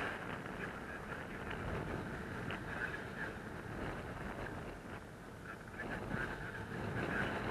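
Airflow buffeting the microphone during a paraglider flight: an uneven rushing noise that swells and eases in gusts, strongest near the end.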